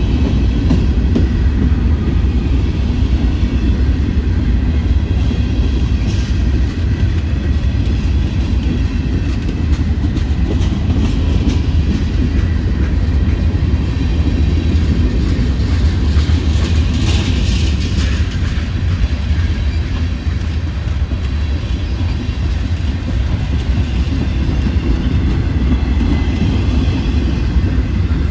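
Union Pacific manifest freight train's cars rolling past close by: a loud, steady rumble of steel wheels on rail, with a brief higher squeal about seventeen seconds in.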